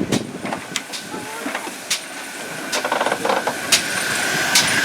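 Steam hissing from a Great Western pannier tank locomotive, growing louder from about three seconds in with a steady high tone in it. Several sharp clicks are heard through the hiss.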